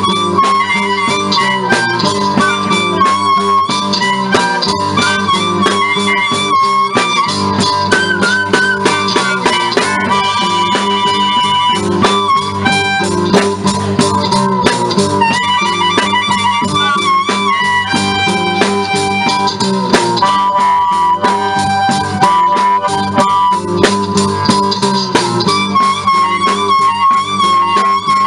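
Live blues played on harmonica over a rhythmic guitar accompaniment, an instrumental passage with the harmonica holding and bending notes over a steady beat.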